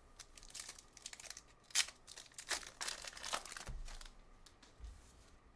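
Foil wrapper of a trading-card pack crinkling and tearing as it is ripped open, a run of irregular crackles lasting about three seconds.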